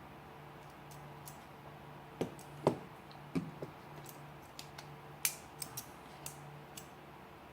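Small, sharp metal clicks and taps from a Leatherman Wingman multi-tool being handled and worked apart: about a dozen ticks between two and seven seconds in, the loudest a little under three seconds in.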